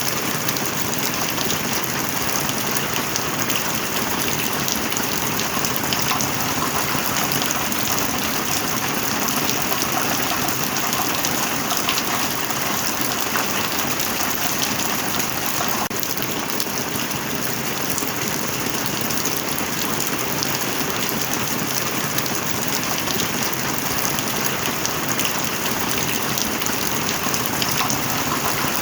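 Steady heavy rain: a dense, even hiss of rainfall with many sharp drop ticks throughout.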